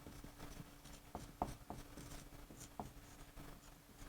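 Faint scattered light taps and scratches, about a dozen, over a steady low hum.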